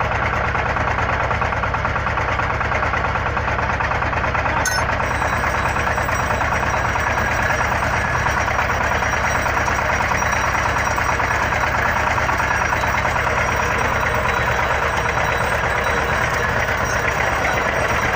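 Engine of an XY-3 water well drilling rig running steadily at a constant speed, with a brief click about five seconds in.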